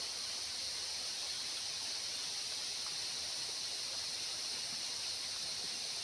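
Steady, high-pitched chorus of forest insects, an unbroken droning hiss with no pauses.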